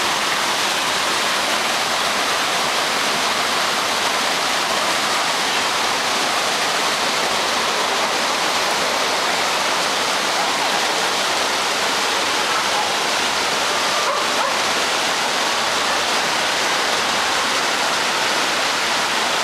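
Steady rushing of running water, as from a waterfall or fast stream, at an even level throughout.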